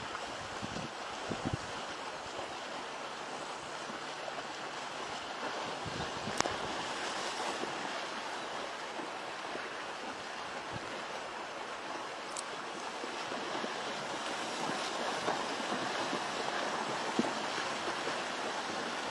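A steady rushing noise, like wind or surf, growing slightly louder, with a couple of faint clicks about six and twelve seconds in.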